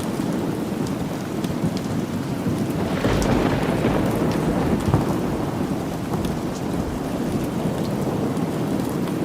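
Steady rain with a low rolling rumble of thunder that swells about three seconds in, scattered with faint sharp ticks.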